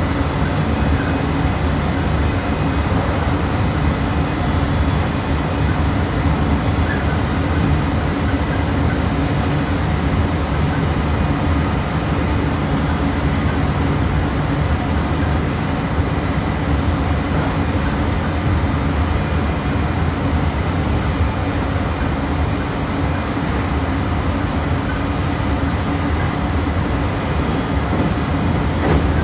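Meitetsu 3150 series electric train running steadily at speed, heard from inside the passenger car: a constant low rumble of wheels on rail with a few faint steady tones above it.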